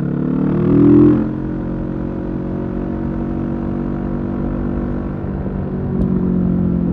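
Kawasaki Z650's parallel-twin engine through a Leo Vince EVO carbon exhaust, its revs rising briefly about a second in, then dropping back and running steadily.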